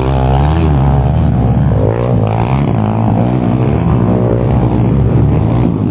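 Motocross bike engines revving, their pitch rising and falling over and over, with a steady low drone underneath.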